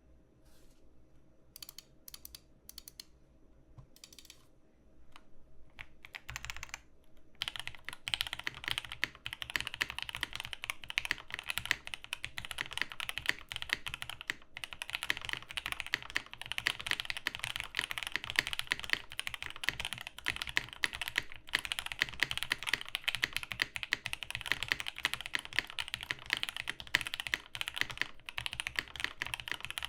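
Custom Rama Works Kara mechanical keyboard with lubed, filmed Snow White switches, GMK keycaps and a PE foam mod being typed on. A few separate keystrokes for the first several seconds, then fast continuous typing from about seven seconds in.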